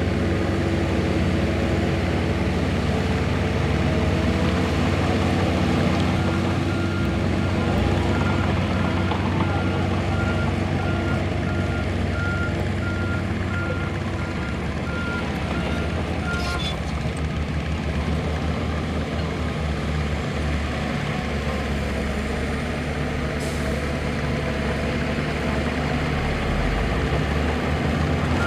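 Diesel engines of heavy earthmoving machines running under load, with a reversing alarm beeping steadily for about ten seconds in the middle. There are two brief sharp sounds, one just after the beeping stops and one later on.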